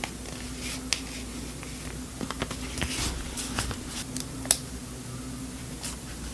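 Scattered light taps and clicks of small objects being handled, with one sharper click about four and a half seconds in, over a steady low hum.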